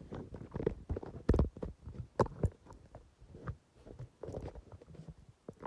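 Irregular knocks, thumps and rubbing of a camera being handled and set in place, with quiet gaps between the knocks.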